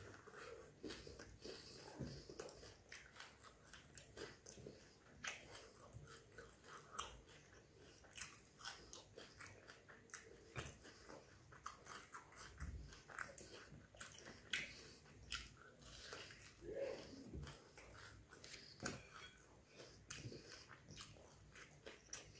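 Close-up sounds of a person chewing a fried prawn wade (lentil fritter) with onion and sauce: many short crisp crunches and wet mouth clicks, irregular and continuous.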